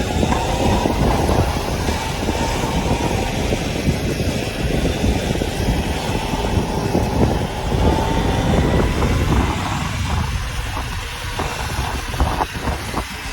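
Riding on an electric dirt bike: rushing wind noise with a thin motor whine that rises slowly in pitch, the rushing easing about ten seconds in, with a few sharp clicks near the end.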